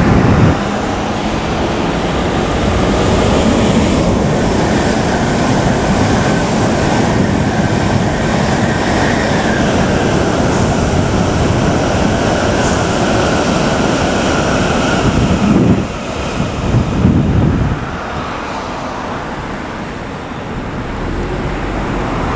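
Hokuriku Shinkansen E7/W7-series high-speed train running past at speed: a long, loud rushing noise with a faint high whine. It dies down about 16 seconds in.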